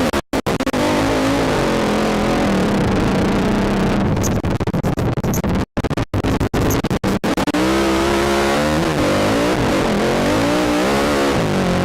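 ATV engine revving up and down as it is ridden hard, its pitch repeatedly rising and falling. The sound cuts out sharply for split seconds several times near the middle.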